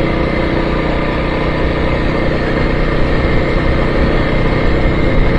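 Kawasaki motorcycle engine running steadily at low road speed in a constant gear on a rough dirt two-track, with a low rumble underneath.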